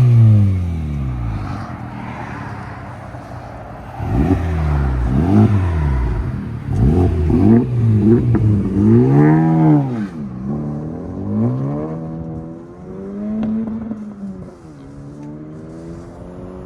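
2024 Honda Civic Type R's 2.0 L turbocharged four-cylinder through an AWE cat-back exhaust as the car drives off, the revs rising and falling several times with the gear changes. It grows quieter after about ten seconds as the car pulls away.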